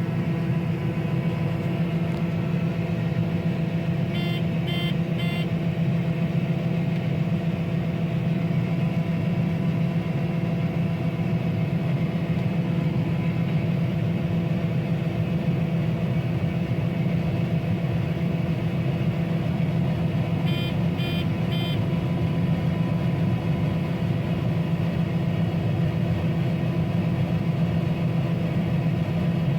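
Combine harvester running steadily during corn harvest, a continuous engine drone. Twice, about four seconds in and again about twenty-one seconds in, a quick run of short electronic beeps sounds over it.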